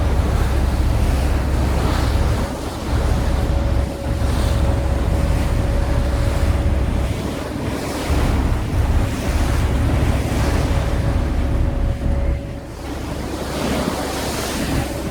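Wind buffeting the microphone aboard a large passenger ferry under way across choppy water, over the rush of water past the hull. A steady hum from the ferry runs through most of it.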